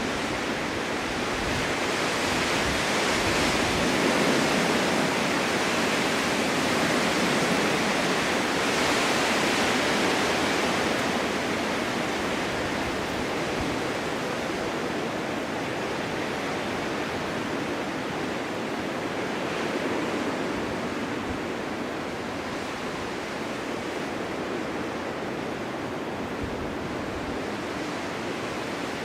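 Wind blowing steadily, with a long gust swelling and easing over the first ten seconds or so.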